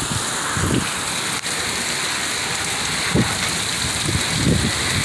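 Rainstorm: rain falling steadily with an even hiss, with low, uneven rumbles underneath.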